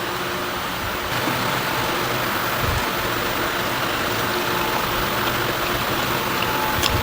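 A steady rushing noise with a low hum and a faint thin whine, growing slightly louder about a second in; a faint click near the end.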